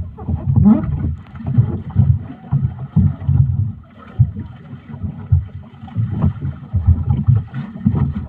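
Wind buffeting the microphone during a ride over open water, in uneven, choppy gusts.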